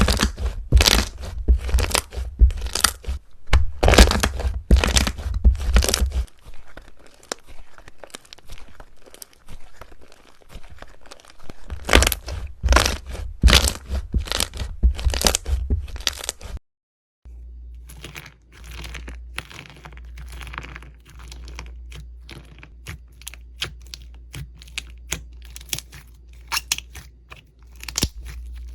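Slime being squeezed and pressed by hand, giving fast, crisp crackling and popping clicks in loud spells. After a brief cut about two-thirds of the way in, a lighter, quieter clicking over a low steady hum.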